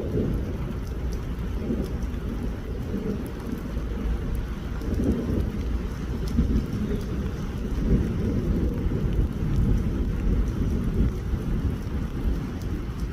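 Rain falling, under a steady low rumble of wind buffeting the microphone.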